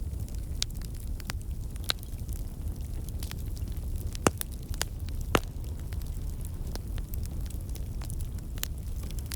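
Wood fire crackling: a steady low rumble with irregular sharp pops and snaps, two louder pops a little after the middle.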